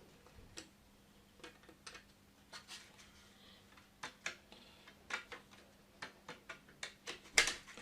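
Irregular small clicks and taps of 3D-printed plastic parts being handled and pressed together, with a louder knock about seven seconds in.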